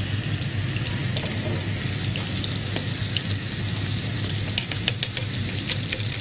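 Bitter gourd slices sizzling in hot oil in a frying pan: a steady hiss dotted with many small crackling pops, over a low hum. A few sharper clicks come in the last couple of seconds.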